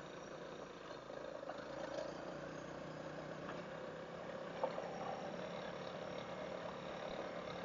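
Faint, muffled steady drone of a Honda CRF single-cylinder dual-sport motorcycle engine running, heard through a helmet intercom microphone.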